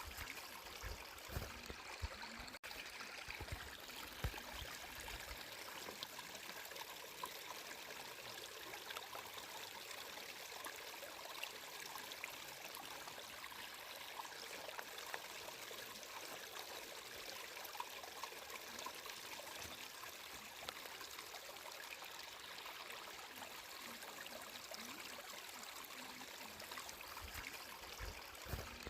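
Water flowing steadily, a constant faint rush with small splashes, broken by a momentary dropout about two and a half seconds in.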